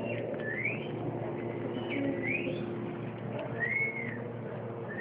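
Shih-tzu puppy whining: about four short high whines, the first two rising in pitch and the later ones arching up and down. A steady low hum runs underneath.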